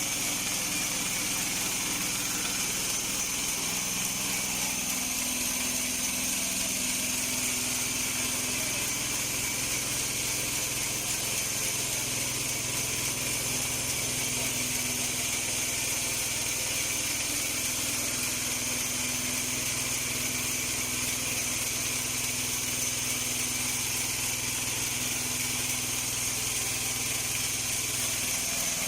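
Portable bandsaw mill's engine running steadily, with a steady hiss over it.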